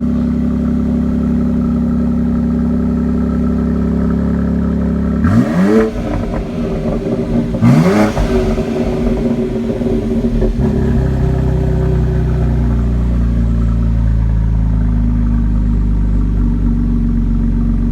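BMW X4 M Competition's 3.0-litre twin-turbo straight-six idling, blipped twice in quick revs about five and eight seconds in, each dropping back to idle. The idle steps down a little about ten seconds in.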